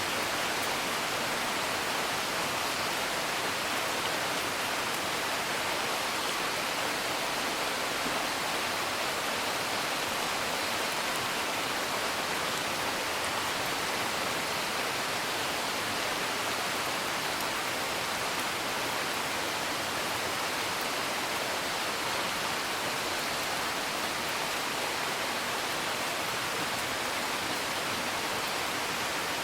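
Steady rain hiss, an even rushing patter without pauses, with a few faint crackles of a wood fire.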